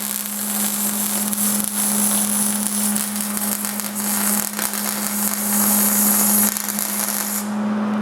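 Electric arc welder running a short bead on thin sheet-steel door panel, a steady crackling sizzle that cuts off about seven and a half seconds in, with a steady low hum underneath.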